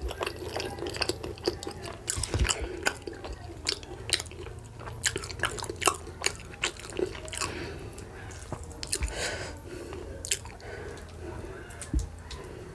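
Close-miked chewing of boiled cocoyam with pepper dip: a steady run of wet mouth clicks and smacks.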